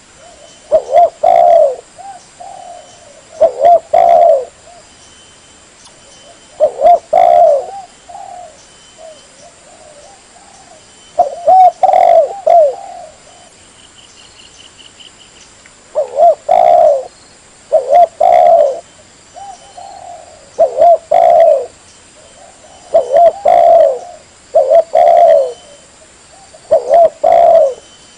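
Spotted dove cooing: short loud phrases of a few throaty coos, repeated every few seconds, with softer coos in between.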